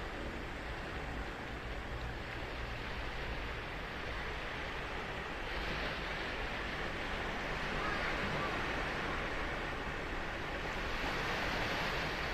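Ocean surf on a sandy beach: a steady wash of breaking waves, swelling louder as waves break about five and a half, eight and eleven seconds in.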